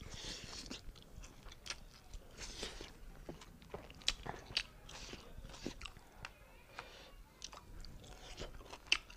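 A person chewing a mouthful of beef curry and rice, with frequent short, sharp mouth clicks and lip smacks at irregular intervals.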